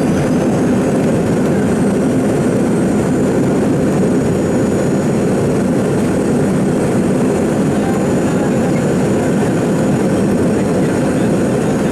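Steady jet cabin noise inside a Boeing 717 on the ground after landing: low rumble from the rear-mounted Rolls-Royce BR715 engines, with a faint high engine whine over it.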